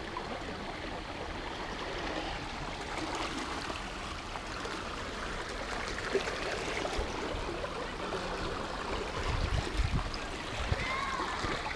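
Steady rush of flowing water from a canal, with a few low bumps near the end.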